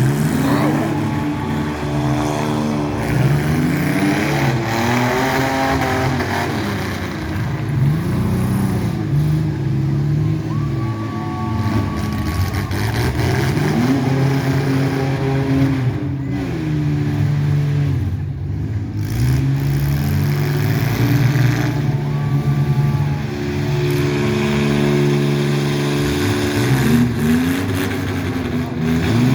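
Mini truck engine revving hard, its pitch climbing and dropping back again and again every few seconds under load.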